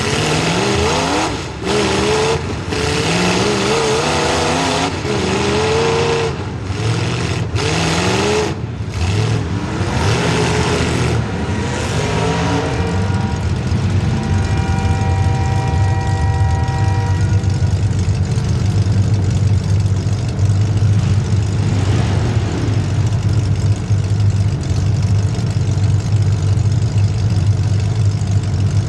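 Demolition derby car's small-block Chevy V8 revving up and down hard for about the first twelve seconds, then settling to a steady idle. A steady high tone sounds for about three seconds midway.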